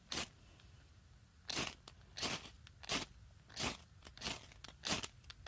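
A broken reciprocating-saw blade's teeth scraped down a hard old ferrocerium firesteel to throw sparks: one stroke at the start, then after a pause about six quick scrapes, roughly one every two-thirds of a second.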